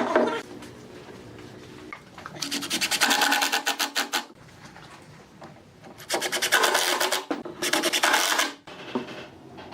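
Wood being worked by hand with a rasping, rubbing sound, in three bursts of quick, evenly spaced strokes.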